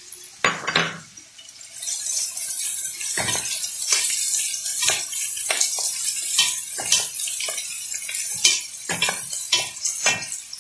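Chopped onion and green pepper sizzling in oil in a stainless steel pot, with a wooden spoon stirring and scraping against the pot in irregular knocks. The steady hiss of frying sets in about two seconds in.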